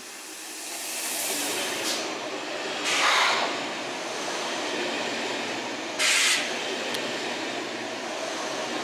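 Deutsche Bahn ICE train running along the platform: a rush of wheel and air noise that swells over the first second or so as it nears, then holds steady as the cars go by. Two brief louder bursts of noise come about three seconds apart.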